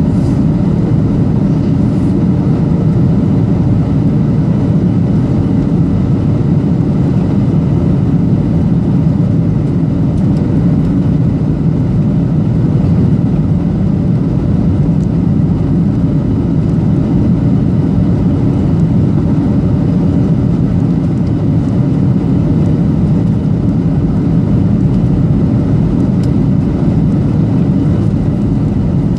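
Steady cabin noise inside a Boeing 737-800 on its approach: a low, even rumble of CFM56-7B engine and airflow noise heard from a window seat, with a faint steady hum over it.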